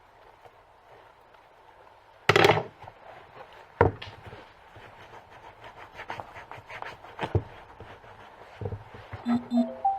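Handling noises as a leather balm tin and a boot are worked with: a loud scrape or rustle about two seconds in, sharp knocks and clicks around four and seven seconds in, light ticking between them, and a couple of short squeaks near the end.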